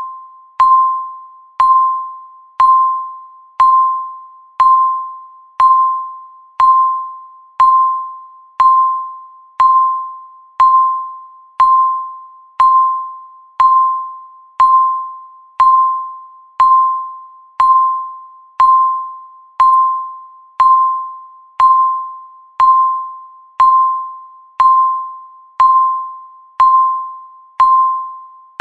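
Countdown timer's tick sound: one short electronic beep-tick each second, a sharp strike of a steady tone that rings and fades before the next.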